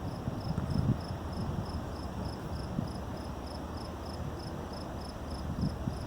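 Crickets chirping in a steady, even rhythm of about three short, high chirps a second, over a low, uneven rumbling noise.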